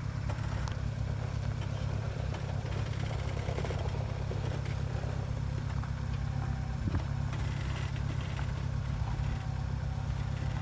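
An off-road vehicle's engine running steadily, with a couple of faint knocks.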